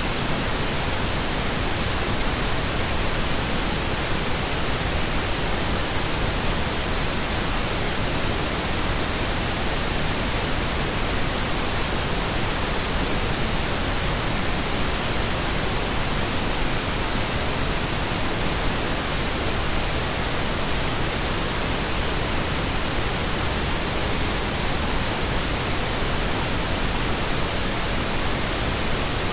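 Steady pink noise: an even, unchanging hiss that does not vary.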